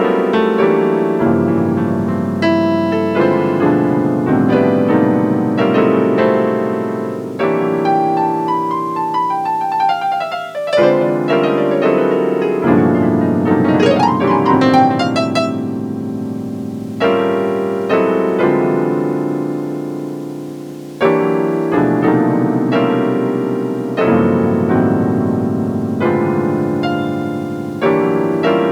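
Electric-piano chords played on a Yamaha PSS-A50 keyboard and Zoom ST-224 sampler setup, changing every second or two. Two sliding-pitch sweeps pass over the chords in the middle.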